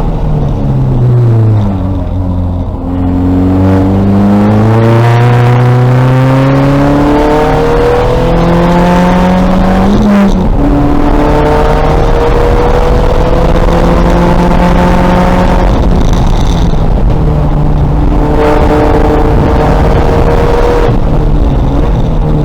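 Race-prepared 2000 VW Golf's engine under hard driving, the revs dropping at the start and then climbing for several seconds at a time, with breaks in pitch at gear changes about ten seconds in and twice more later.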